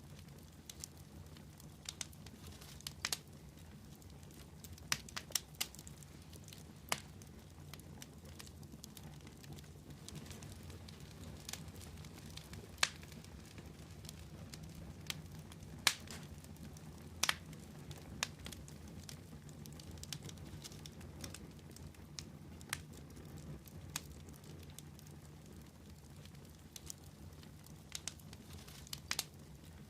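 Fire crackling: irregular sharp pops and snaps, a few a second, over a low steady rumble.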